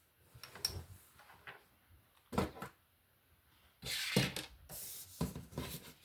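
Plastic Lego pieces handled and pressed together: a series of small clicks and clacks, with a denser rattling rustle of pieces being sorted about four seconds in.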